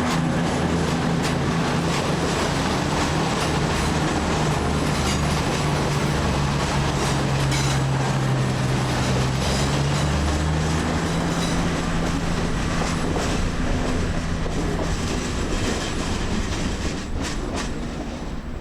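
A passenger train moving through a station. A steady low engine or motor drone runs under the rolling noise, with scattered clicks of wheels over rail joints, and it fades a little near the end.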